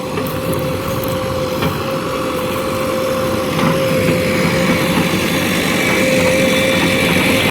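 Heavy diesel engine of a tractor or backhoe running steadily, with a constant whine over it and a slow rise in loudness.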